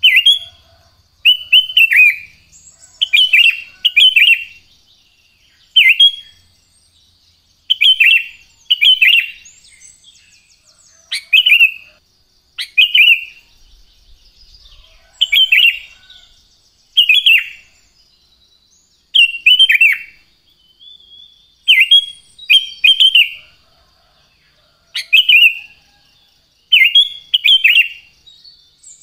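Sooty-headed bulbul (kutilang) singing: short, loud, slurred phrases repeated about every one to two seconds, over a faint steady high hum.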